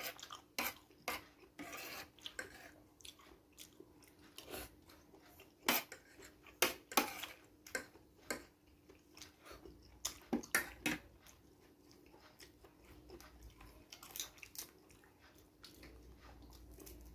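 Close-up chewing and mouth smacks of someone eating seafood fried noodles, with irregular clicks of cutlery against a bowl, over a faint steady hum.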